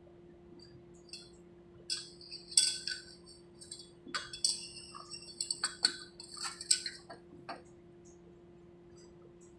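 Metal parts and tools clinking and scraping in a burst of handling that starts about two seconds in and stops after about seven and a half seconds, over a steady low hum.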